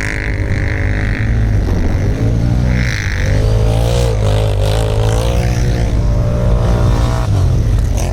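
ATV engine running steadily, its revs rising and falling.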